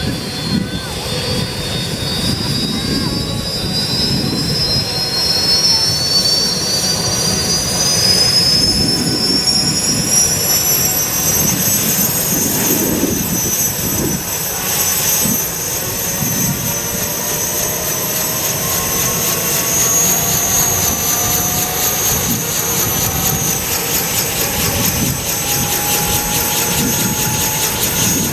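Bell 204 / UH-1 Huey helicopter's turbine engine whining high, rising in pitch over about the first twelve seconds and then holding steady, over the low throb of the rotor.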